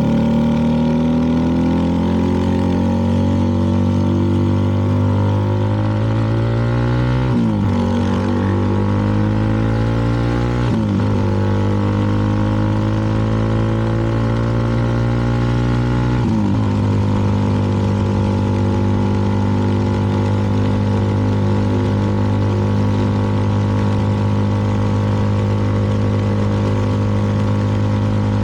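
CFMoto 300NK's single-cylinder engine running under way, with three gear changes in the first half, each breaking and shifting the engine note, then holding a steady note.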